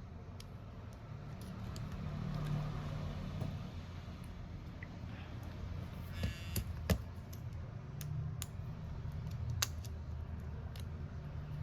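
Scattered light clicks and taps of small tools and phone parts being handled at a repair bench, with a short rattle about six seconds in, over a low steady hum.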